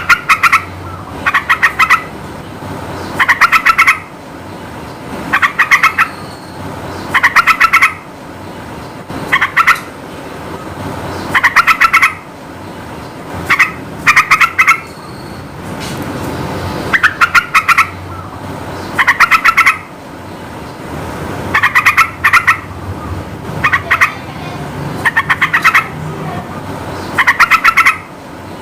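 Sooty-headed bulbul (trucukan) singing: short, fast bubbly phrases repeated about every one to two seconds, over a steady background noise.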